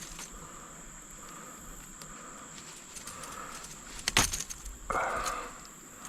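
Outdoor ambience with a steady high-pitched drone and soft swells about once a second. About four seconds in there is a sharp knock, the loudest sound, then a short noisy rush.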